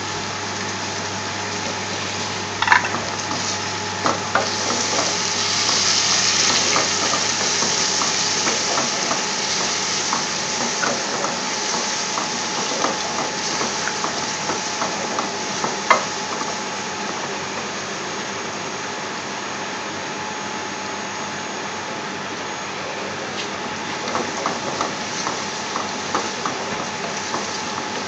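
Chopped garlic, ginger and whole spices sizzling in hot oil in an aluminium pot, with a wooden spoon stirring and now and then knocking against the pot. The sizzle swells a few seconds in, then settles to a steady hiss.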